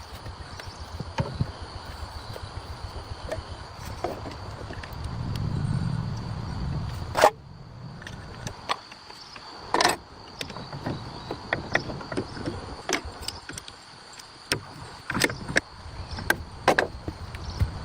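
Scattered sharp clicks and knocks, with a low rumble swelling about five to seven seconds in.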